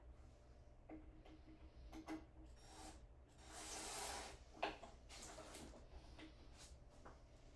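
Faint handling noises on wood: a few light knocks, a rubbing slide about three and a half seconds in, and a sharp click just after it, over a low steady hum.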